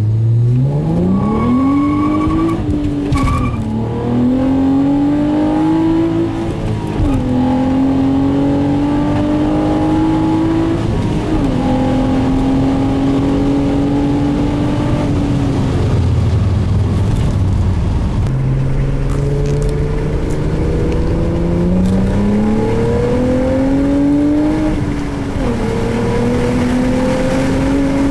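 Nissan VQ35DE 3.5 V6 with a K&N Typhoon intake and Nismo cat-back exhaust, heard inside the cabin of a 2010 Altima coupe with the windows up, accelerating hard through the gears. The pitch climbs in each gear and drops at each upshift of the 6-speed manual. The engine eases off briefly about two-thirds of the way through, then pulls hard again.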